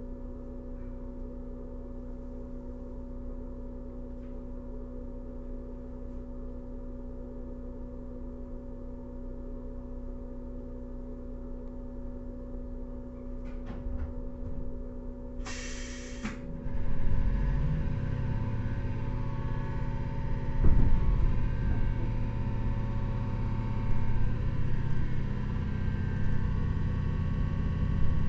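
Inside a 115 series electric multiple unit motor car: the stationary train's steady hum, a short burst of compressed-air hiss about halfway through, then the train pulling away with its MT54 DC traction motors rumbling under the floor and a whine that rises in pitch as it gathers speed near the end.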